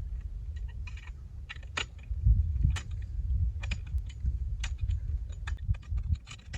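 Irregular small sharp clicks and clinks of metal tools and parts being handled while working on a water hydrant, over a low rumble.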